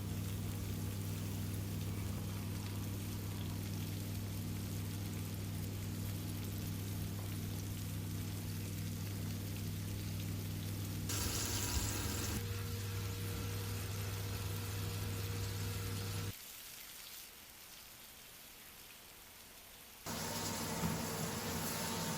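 A steady low hum with hiss over it, changing abruptly several times and dropping much quieter for a few seconds about two-thirds of the way through.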